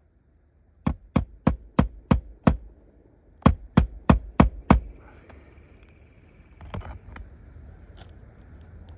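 A hammer driving roofing nails into shingles: six quick blows, a short pause, then five more, each with a brief metallic ring. Quieter scuffing and a dull knock follow.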